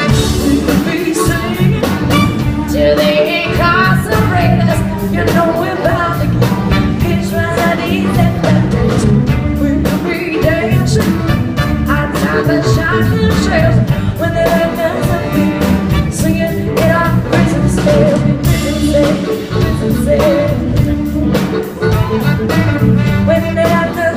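Live band music: a woman singing lead over a full band with a steady drum beat.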